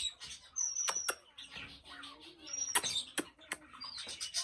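Pet green parrot making a few short, high squeaks between its words, with several sharp clicks.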